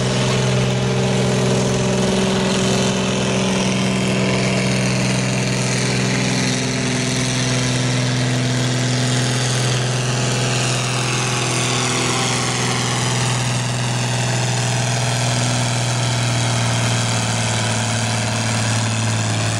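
Diesel engine of an 8,000 lb farm stock pulling tractor running hard and steadily under load on a pull. Its pitch sags slightly midway and then recovers.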